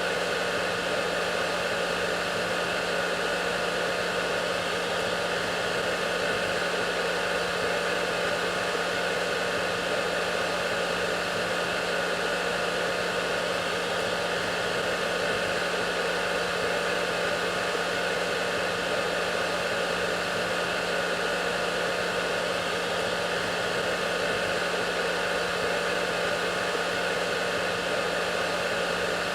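Hair dryer running steadily: an even rush of blown air with a constant low hum and a few faint steady whining tones above it, unchanging throughout.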